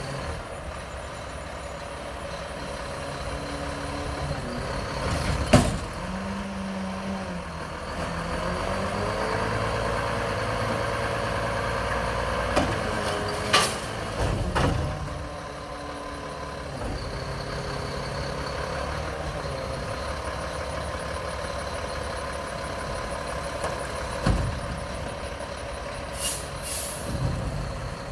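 Mack LEU garbage truck's diesel engine running and revving up for a stretch, with several sharp bangs and air-brake hisses.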